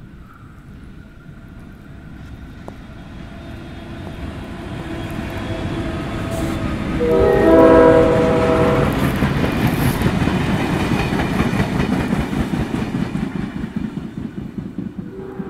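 A diesel-hauled train approaches and passes on the main line, growing steadily louder. About seven seconds in, the lead diesel locomotive sounds a horn of several notes at once for about two seconds. Then the locomotives and carriages clatter past over the rails, easing off near the end.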